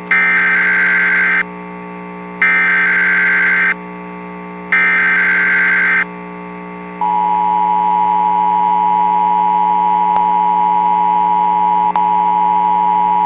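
Emergency Alert System (EAS) broadcast alert: three short bursts of screechy digital data tones, each just over a second long with about a second's gap between them, then a steady two-tone attention signal that begins about seven seconds in and holds. It signals the start of an emergency broadcast, here an Extreme Wind Warning. A steady low hum runs underneath.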